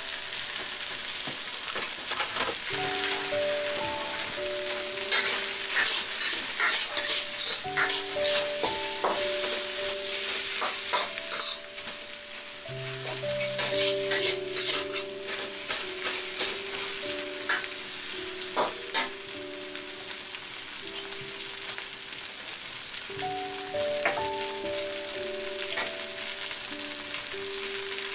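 Fried rice with chicken and vegetables sizzling in a hot pan while a metal spatula stirs and tosses it, with frequent scrapes and clicks of the spatula on the pan, busiest in the middle. Soft background music plays underneath.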